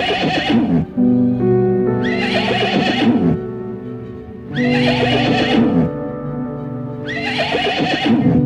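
A horse neighing four times, about every two and a half seconds, over steady background music.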